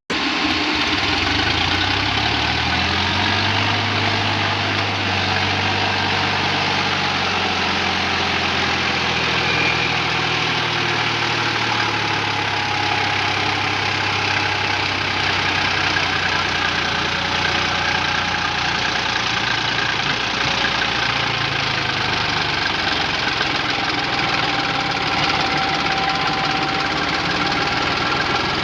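Sonalika 35 tractor's diesel engine running under load, pulling a fully loaded soil dumper trailer. Its pitch rises and falls over the first ten seconds or so, then holds steady.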